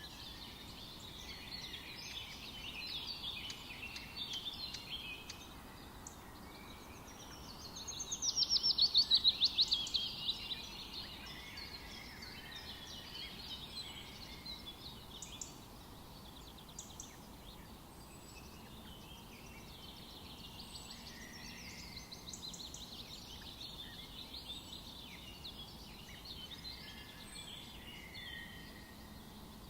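Several forest birds singing and chirping over one another. One loud, fast trill of rapidly repeated notes stands out about eight seconds in, then the chorus carries on more quietly.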